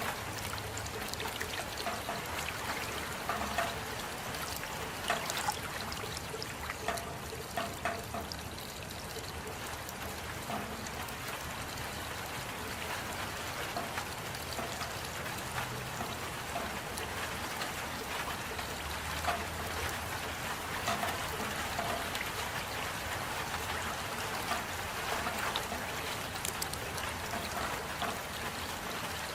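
Steady rain falling, an even hiss with many scattered individual drops ticking and splashing.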